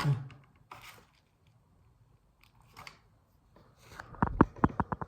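Small clicks and scrapes of hand work on a smartphone during a screen repair, ending in a quick run of about eight sharp clicks near the end.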